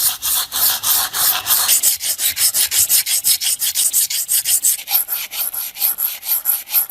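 Fast, even back-and-forth hand strokes of an abrasive rubbing on metal, about four a second, scrubbing rust from a part of a vintage manual meat grinder. The sound turns thinner and higher about two seconds in.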